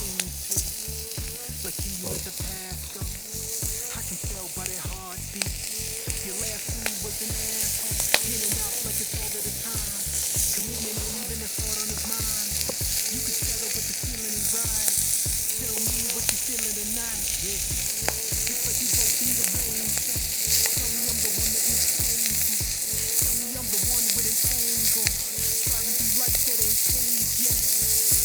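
Chicken sizzling hard on a thick iron griddle set over a burning Swedish torch log fire, a steady frying hiss with a few sharp pops, about 8 s in the loudest. The griddle is very hot from a fire that is burning too strongly.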